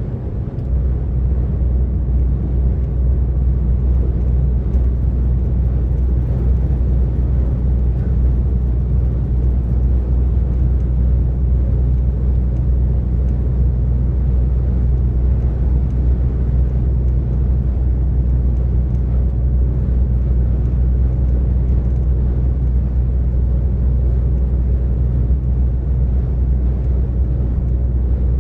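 DAF XF 460 lorry's PACCAR MX-13 straight-six diesel running steadily at motorway cruising speed: a constant low drone mixed with road noise.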